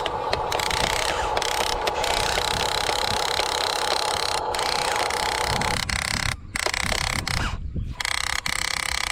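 RC excavator's electric motors and gearing whining steadily as it works. The whine changes pitch about six seconds in, shifting higher, with a couple of brief dropouts.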